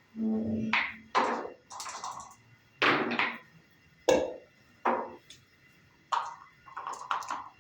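Backgammon checkers and dice clacking on the board: a string of about ten separate knocks and clicks.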